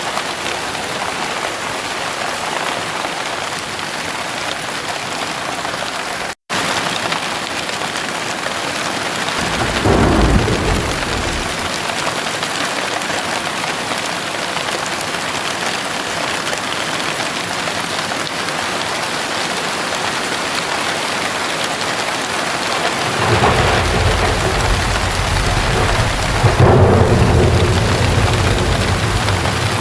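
Heavy rain falling steadily, with a short rumble of thunder about ten seconds in and a longer, louder rumble of thunder rolling from about twenty-three seconds until near the end. The sound drops out for an instant about six seconds in.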